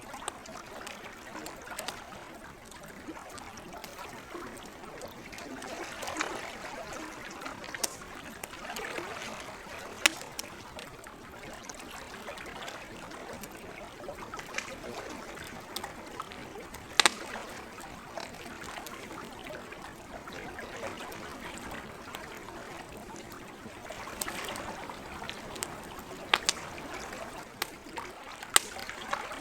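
Campfire crackling with scattered sharp pops, over the gentle lapping of lake water that swells and fades every few seconds.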